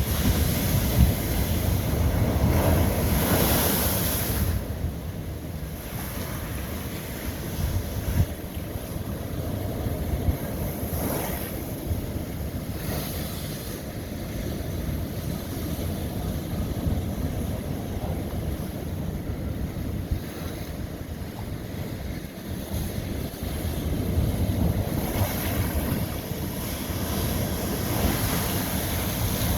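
Ocean waves breaking and washing over old lava rock, a steady rush that swells louder in the first few seconds and again near the end.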